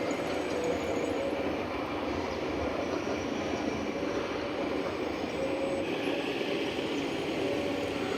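Scale RC model trucks and tractors running, a steady mechanical whir with a wavering whine from their drive motors and gearboxes.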